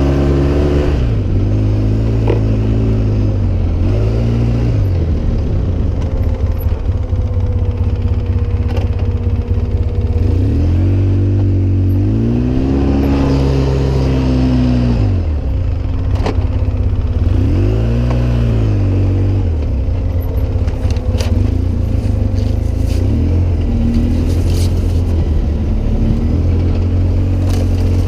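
Off-road vehicle engine revving up and easing off over and over, its pitch climbing and dropping every few seconds as it drives over uneven ground. A sharp knock comes about halfway through, and there is some light clattering toward the end.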